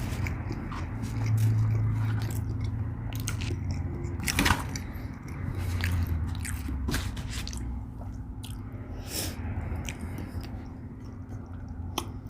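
Close-miked chewing and biting of food, with irregular short wet mouth clicks, over a steady low hum.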